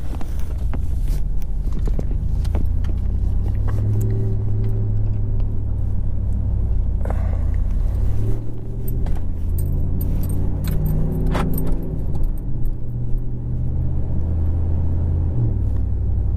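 A 2015 Ram 1500's 5.7-litre Hemi V8 running through a Carven Competitor Series cat-back exhaust, heard from inside the cab while the truck drives off. The deep exhaust note shifts in pitch and level several times as the truck pulls away, with scattered light clicks and rattles.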